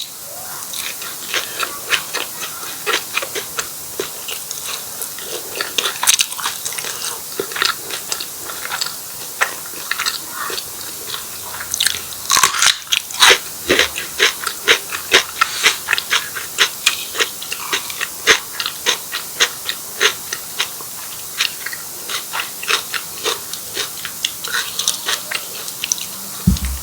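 Close-miked eating of martabak telur, a fried stuffed egg pancake: crisp crunching bites and chewing with many small crackles, several a second.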